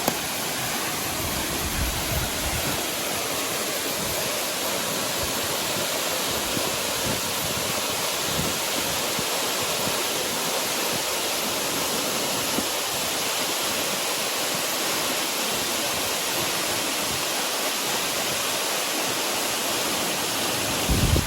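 Waterfall pouring into a creek pool: a steady, even rush of falling water, with a short low rumble near the end.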